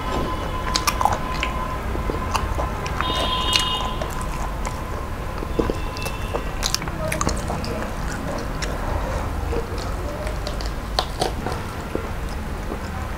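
Close-up chewing and biting of chicken and rice, with many short, sharp wet mouth clicks and smacks.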